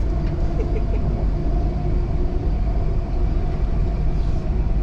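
Dubai Metro train running between stations, heard inside the carriage: a steady low rumble of wheels and motors with a faint hum.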